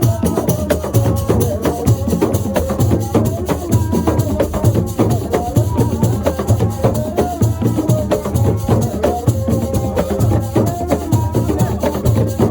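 Assiko music: dense, fast hand-drum percussion with a shaken rattle and a repeating low beat, with wavering pitched lines, likely voices, over it.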